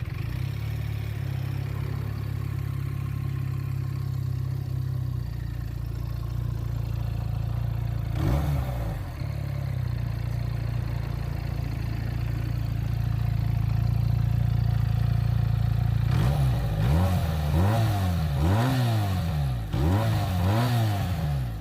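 Benelli TNT 300's twin-cylinder engine idling steadily through its exhaust, with one brief rev about eight seconds in. Near the end it is blipped repeatedly, about six quick revs in a row.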